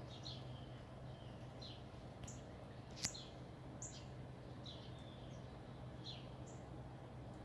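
Small birds chirping, a run of short, falling high chirps repeated every second or so, over a steady low hum. A single sharp click about three seconds in is the loudest sound.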